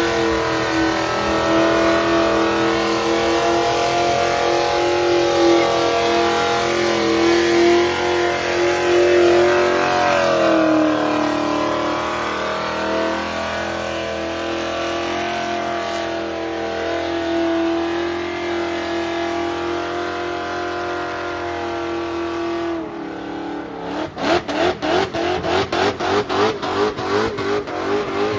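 Drift car's engine held at high revs during a tyre-smoking burnout, with the revs dipping and climbing back about a third of the way through. Near the end the engine is revved in quick bursts, about three or four a second.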